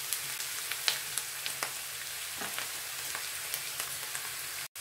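Chopped onion, green chillies and curry leaves sizzling in hot coconut oil with fenugreek seeds in a frying pan: a steady hiss with scattered crackling pops as the onions are sautéed until they soften. The sound drops out for an instant near the end.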